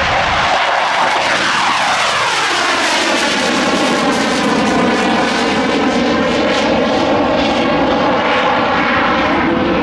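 Alenia Aermacchi M-346 Master's twin Honeywell F124 turbofan engines at takeoff power, a loud jet roar and whine. Its pitch falls over the first few seconds as the jet passes and pulls away, then holds steady.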